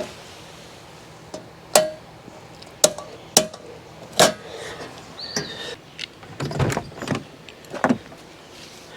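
Scattered knocks and clunks of camping gear being handled and packed away, about eight of them spread out, with a short high squeak about five seconds in.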